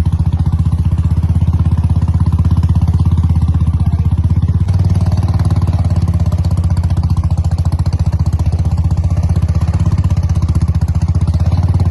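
Motorcycle engine running steadily at an even speed, with a fast regular beat. The note shifts slightly about five seconds in.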